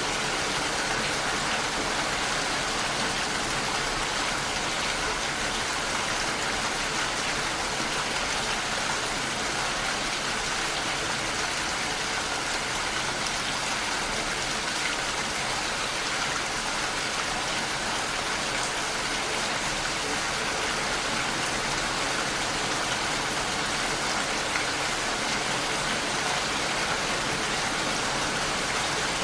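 Steady rain pattering against a window pane, an even, dense hiss.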